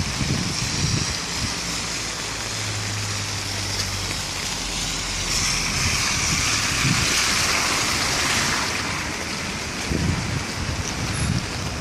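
Heavy downpour of a thunderstorm: a steady hiss of hard rain that swells in the middle, with low gusty buffeting on the microphone.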